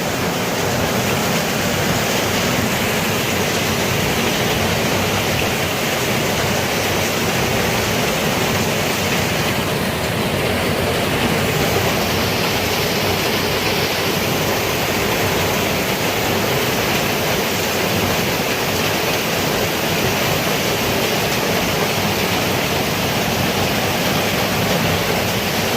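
Heavy rain falling, a steady, dense hiss of a downpour.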